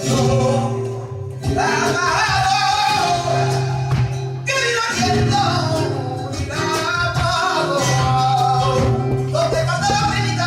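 Flamenco music: a singer's long, wavering sung phrases over guitar.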